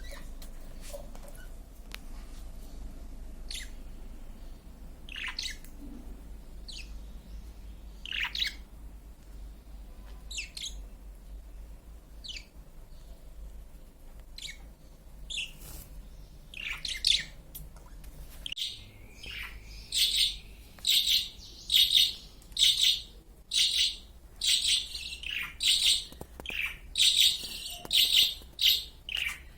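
Small birds chirping: scattered single high chirps at first, then, from about two-thirds of the way in, a steady run of loud, sharp chirps about two a second.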